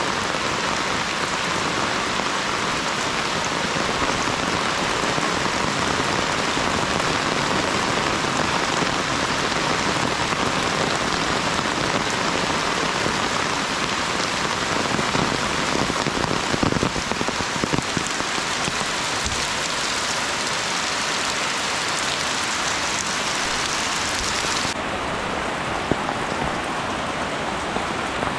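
Steady rain falling, an even hiss with a few sharper drops or taps about halfway through. Near the end the brightest part of the hiss drops away suddenly.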